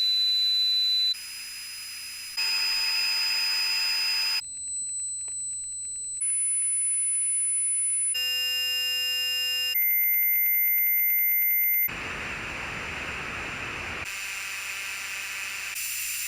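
Simulated tinnitus sounds played one after another, each lasting about two seconds and switching abruptly to the next. They include high-pitched steady ringing tones, a buzzing tone and stretches of hissing static.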